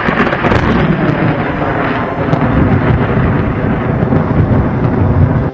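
Thunderstorm sound, loud rumbling thunder with a few sharp cracks at the start, cutting off suddenly at the end.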